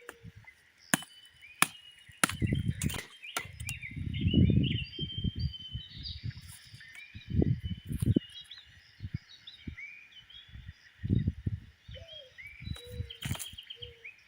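Small birds chirping throughout, over handwork that makes a series of sharp knocks in the first few seconds and louder, dull low thuds at intervals.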